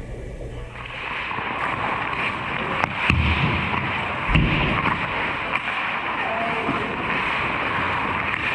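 Ice hockey play on a rink: a steady scraping hiss, with a couple of sharp clacks about three seconds in and a dull thud about a second later.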